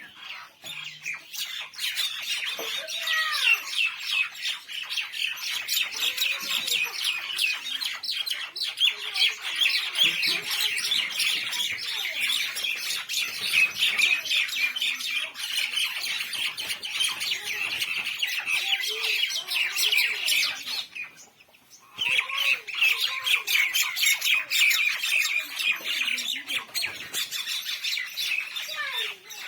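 Mynah birds squawking and chattering without a break, a dense stream of harsh calls mixed with lower gliding whistles. The sound cuts out for about a second roughly two-thirds of the way through, then resumes.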